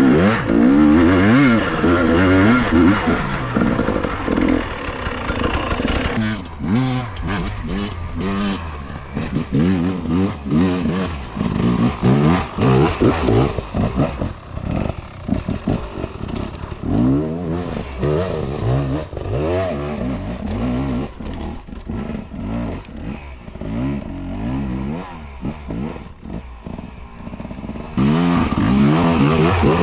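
KTM two-stroke enduro motorcycle engine revving up and falling back again and again as the throttle is opened and closed while riding off-road. It gets louder and brighter near the end.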